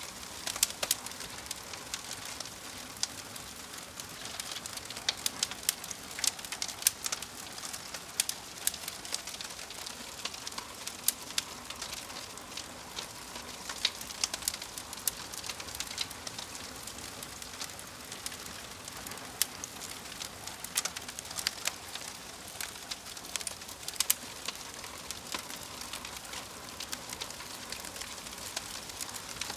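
Wood fire burning in a fireplace: logs crackling with many irregular sharp pops and snaps over a steady soft hiss.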